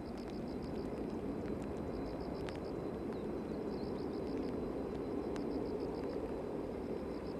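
Airbus A340-300's four CFM56 jet engines giving a steady low roar at a distance, swelling slightly at first and then holding level. Faint high chirping pulses sound in runs above it.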